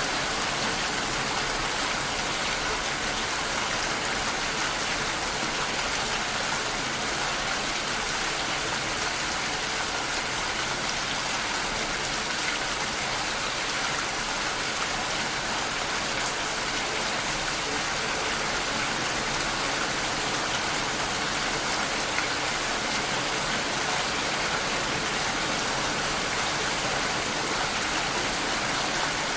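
Steady rain heard through a glass door: an even, unbroken hiss of falling rain.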